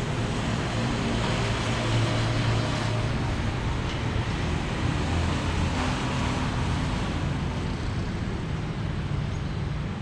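Steady ambient rumble with a low hum throughout, of the kind heard near road traffic.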